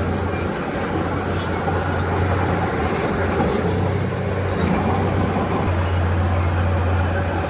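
Diesel engine of heavy earthmoving machinery running steadily under work, a constant low drone.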